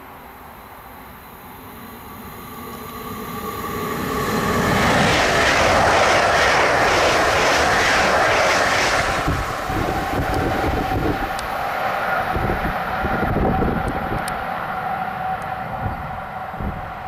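ICE 3 high-speed electric train passing at speed: a rushing swell of air and wheel-on-rail noise that builds over several seconds, is loudest around five to nine seconds in, then tails off slowly with a wavering rumble.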